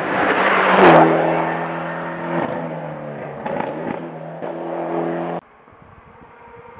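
Rally car passing at speed, loudest about a second in, its engine note dropping in pitch as it goes by, then running on at high revs as it moves away. The sound cuts off suddenly a little past five seconds.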